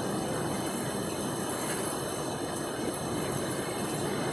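Tornado winds and heavy rain making a steady rushing noise, with no gusts or breaks standing out.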